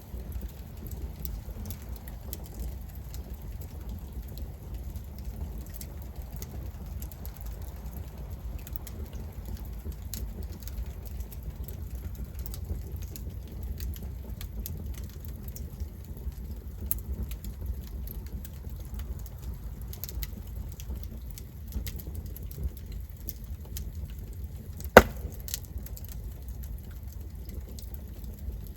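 Campfire burning: wood crackling with scattered small pops over a steady low rumble, and one loud, sharp pop near the end.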